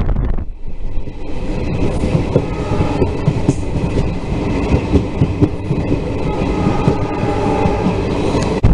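Passenger train running, heard from on board: wheels clacking on the track and the coach rattling. It sets in suddenly about half a second in and cuts off abruptly near the end, with wind on the microphone either side.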